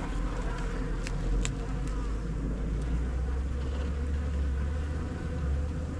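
Honey bees buzzing steadily around an open hive, a continuous low hum, with a few faint clicks in the first second and a half.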